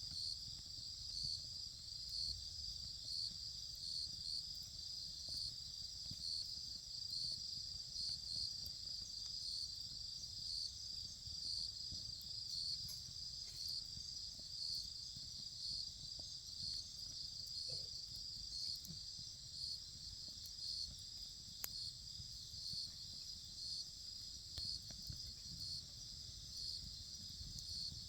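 Insects chirping in a steady, continuous chorus, with a higher call repeating about once a second. A faint low rumble lies underneath, with an occasional faint click.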